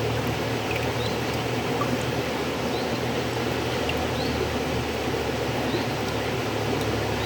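River water flowing in a steady, even rush, with a low steady hum underneath and a few faint, short high chirps.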